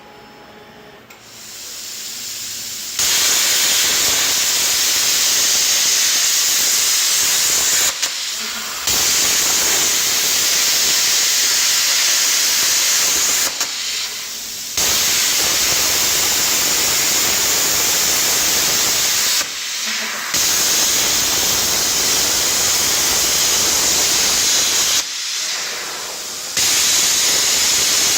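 Loud, steady hiss of a compressed-air tool, built up over the first few seconds and then held in long blasts of about five seconds, cut off briefly four times.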